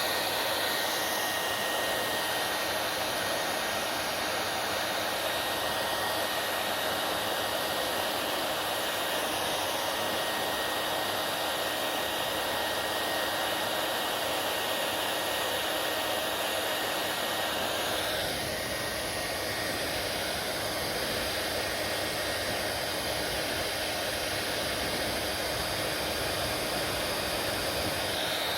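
Hair dryer running steadily: a continuous blowing hiss with a thin, steady whine. The sound shifts slightly about eighteen seconds in.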